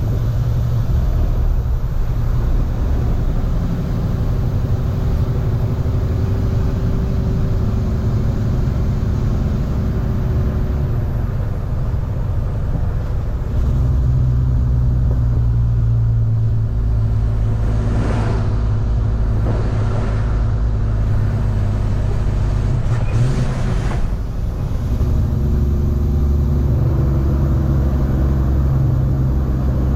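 Semi truck's diesel engine running steadily on the road while hauling a heavy loaded refrigerated trailer. The low engine rumble grows heavier about halfway through, with a few short rising sweeps in pitch a little later.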